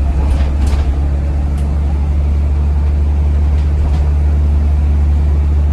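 Double-decker diesel bus engine running steadily with a strong, even low drone. A few faint clicks come in the first two seconds.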